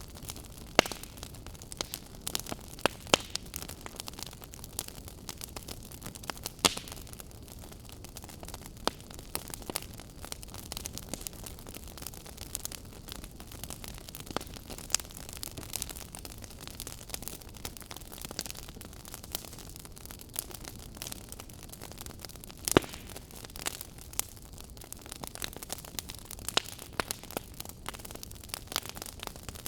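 Fire crackling: irregular sharp pops and snaps over a steady hiss, with a few louder pops scattered through, the loudest about 23 seconds in.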